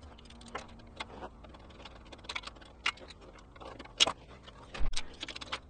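Irregular metallic clicks and taps of hand tools and small parts, as two screws are fitted to retain a ball bearing in a quad's gearbox housing.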